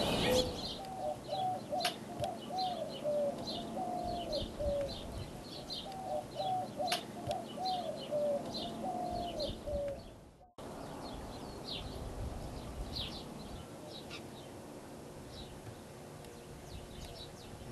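Birds calling outdoors: two runs of short, low notes repeated about twice a second, over high, thin chirps from small birds. The sound drops out for a moment about ten seconds in, and fainter chirping carries on after it.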